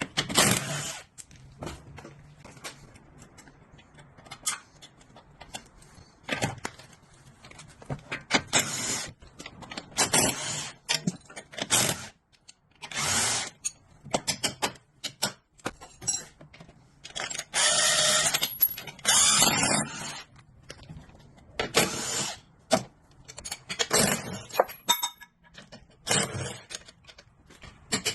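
Metal parts and tools being handled: irregular clinks, knocks and scrapes, with two longer noisy bursts about two-thirds of the way through.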